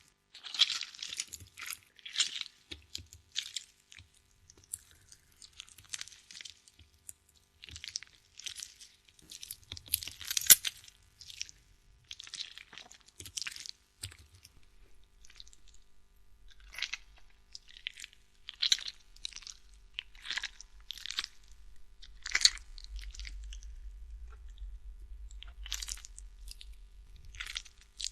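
Crunching and chewing, as of a person biting into and chewing crunchy food, in irregular crisp crunches about every half second to a second. A low hum comes in partway through.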